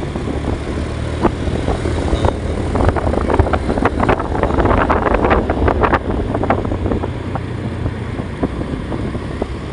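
A steady low engine hum, with a few seconds of dense crackling and tapping rising over it in the middle.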